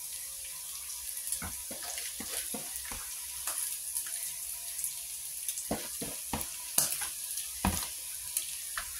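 Food sizzling in hot oil in a cooking pot, with a spoon clicking and knocking against the pot as it is stirred; the knocks come more often from about halfway through.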